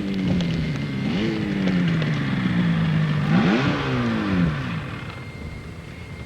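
Motorcycle engine being ridden hard: its pitch climbs sharply twice, about a second in and again just past three seconds, and each time slides back down. The engine sound then fades away near the end.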